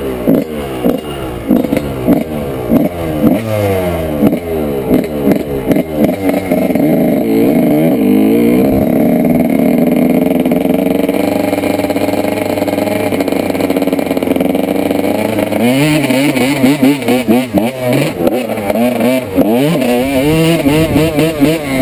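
A 1995 Honda CR125's single-cylinder two-stroke engine revving hard, its pitch climbing and dropping again and again for the first few seconds. It then holds a steady high rev for several seconds, and near the end it goes back to rising and falling.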